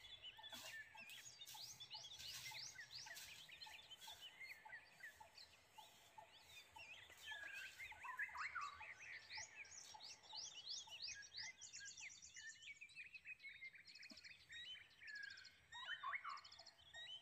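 Several birds calling and chirping at once, a faint mix of short whistled notes and quick, rapid trills.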